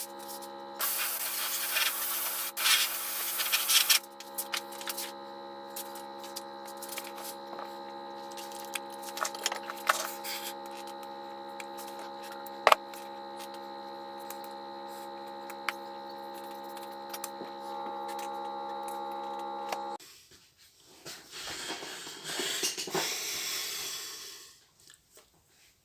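Steady electric motor hum with evenly spaced overtones, overlaid by hissing spray bursts in the first few seconds and occasional small clicks. The hum cuts off suddenly near the end, followed by a few seconds of rustling.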